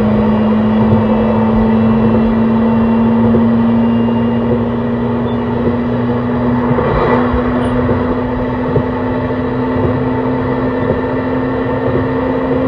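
Running sound of an E131 series 600-subseries electric train: the steady whine of its Hitachi hybrid-SiC VVVF inverter and traction motors over wheel-and-rail noise. The main tone creeps slowly upward in pitch, with a small step up about seven seconds in, as the train gains speed.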